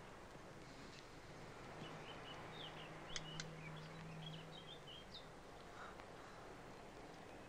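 Small birds chirping faintly over a steady background hiss, in a cluster of short chirps about two to four seconds in, with two sharp clicks among them.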